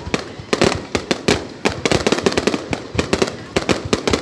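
Fireworks going off: a rapid, irregular run of bangs and cracks, several a second, each with a short echo after it.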